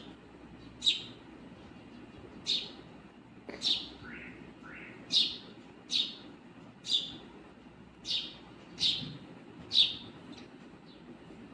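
A bird chirping repeatedly, with short high-pitched chirps that fall in pitch, about one a second. Two lower, gliding calls come about four seconds in. The last chirps near the end are fainter.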